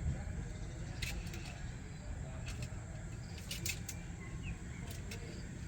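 Outdoor dawn ambience: a steady low rumble with scattered short, high chirps and ticks, in a few small clusters, and one faint rising chirp.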